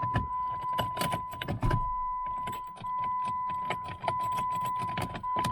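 Inside a 2007 Jeep Grand Cherokee, a steady high warning-chime tone sounds, broken by short gaps about every second, over repeated clicks and key rattles as the key is tried with the shifter in neutral. The engine does not crank: a no-crank, no-start condition.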